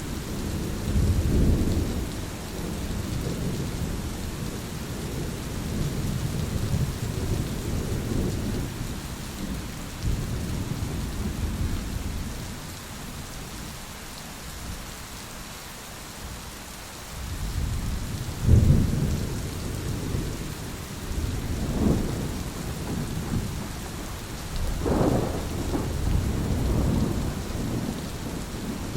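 Thunderstorm: steady heavy rain with rolling thunder. The rumbling eases off for a few seconds mid-way, then comes back with several sharper, louder claps, the loudest about 18 seconds in.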